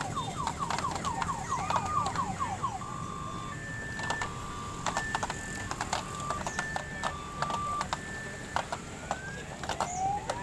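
An electronic siren cycling through its tones: a fast warbling sweep for the first few seconds, then a two-tone hi-lo alternating a little faster than once a second, then rising whoops near the end, over a busy background with sharp clicks.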